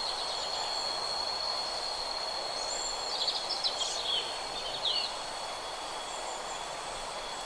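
Forest ambience: a steady high-pitched insect drone over an even hiss, with a few short bird chirps about three to five seconds in.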